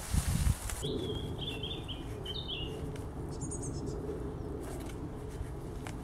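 Small birds chirping in woodland: a run of short chirps about a second in, then a higher, thinner chirp a little later, over a steady low outdoor rumble. A few dull thumps at the very start are the loudest sounds.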